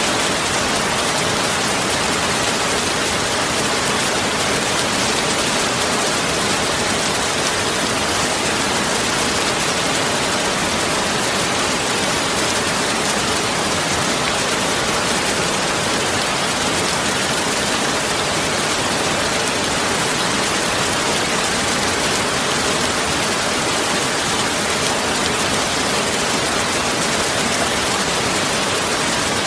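Heavy, steady rain falling, a dense even hiss with no distinct drops or thunder claps standing out.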